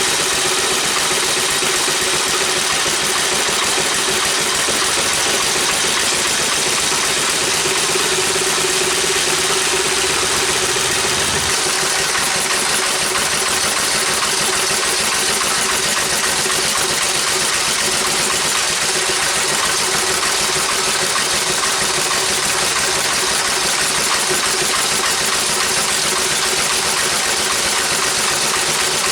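Briggs & Stratton model FI single-cylinder engine running at a steady speed, a loud even mechanical drone that holds unchanged throughout.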